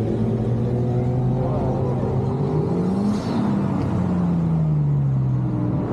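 Car engines running, one rising in pitch to a peak about three seconds in and then falling away, as a car passes by.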